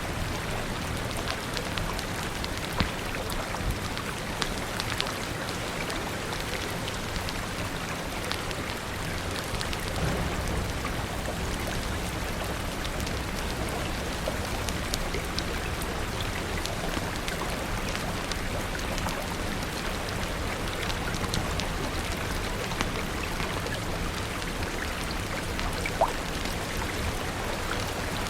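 Steady rain falling on a surface, mixed with a fire crackling: scattered sharp pops and clicks throughout, a few louder ones about 3 seconds in and near the end, over a low steady rumble.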